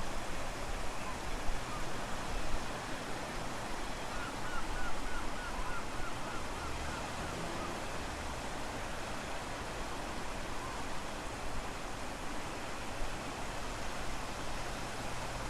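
Strong wind buffeting the microphone over the steady wash of low-tide surf. About four seconds in, a quick run of about ten short, high chirps lasts some three seconds.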